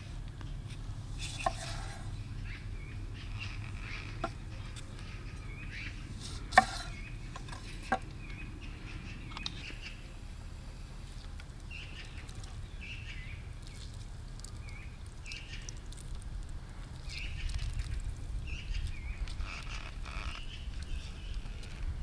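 Small birds chirping in short calls over a low wind rumble, with a few sharp knocks in the first eight seconds, the loudest about six and a half seconds in.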